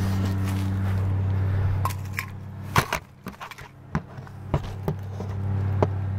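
Handling noise from a recording device being set in place: a string of sharp knocks and clicks, about seven. Under them runs the steady hum of a running vehicle engine, which drops away for a few seconds in the middle while the device is moved.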